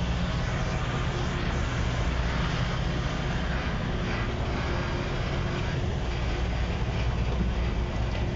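Engine running steadily: a continuous low drone with an even rushing noise over it.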